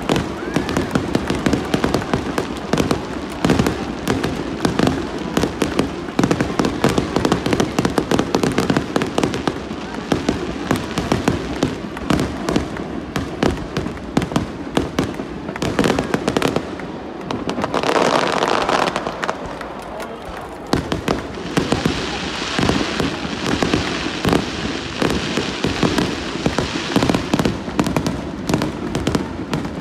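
Fireworks going off in rapid succession: a continuous run of sharp bangs and crackles, several a second, with a short hissing stretch about two-thirds of the way in.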